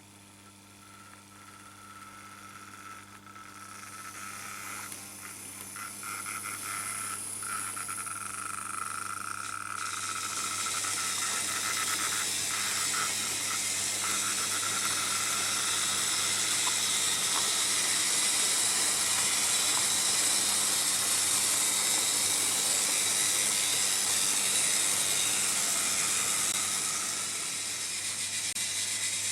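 Märklin H0 model train running on tinplate M-track, its rattle and motor noise growing steadily louder over the first fifteen seconds or so as it comes closer, then holding. A steady low electrical hum runs underneath.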